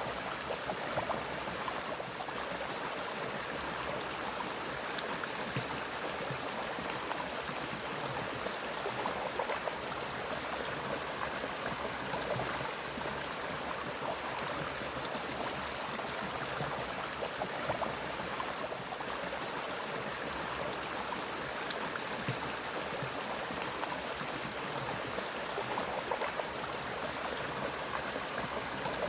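Mountain stream flowing over rocks in forest: a steady, even rush of water. A steady high-pitched tone sits above it.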